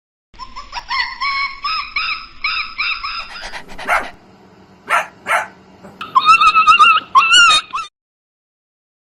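A dog whining and yipping: a quick run of short, high, wavering cries, a few sharp clicks about four to five seconds in, then a louder burst of higher whines that stops about a second before the end.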